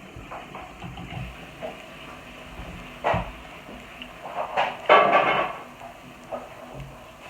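Kitchen clatter of dishes being handled, with a short clatter about three seconds in and a longer, louder run of clattering about five seconds in.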